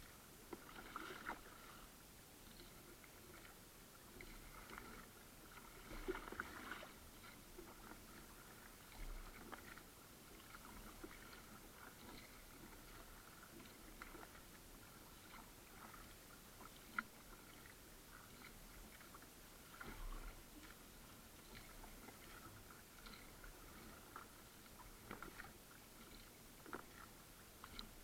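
Faint kayak paddling: soft, irregular splashes and drips of a paddle dipping into calm water, with light ticks against the hull.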